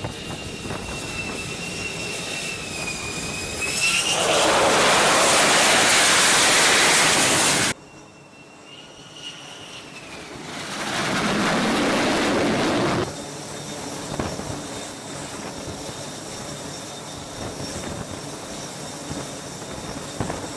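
F-35B jet engine whining, then a loud full-power roar for about four seconds that cuts off suddenly. A second roar swells up around ten seconds in and cuts off again, leaving a steady, high engine whine.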